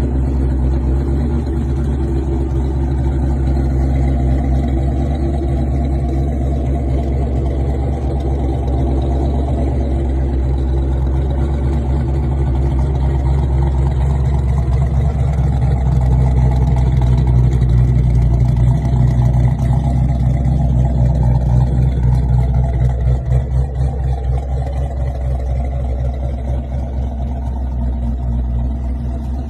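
Car engine running with a deep, steady low rumble that wavers unevenly near the end.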